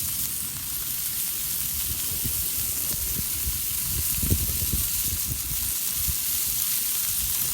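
Meat sizzling as it cooks, a steady high hiss with scattered low thuds, the strongest about four seconds in.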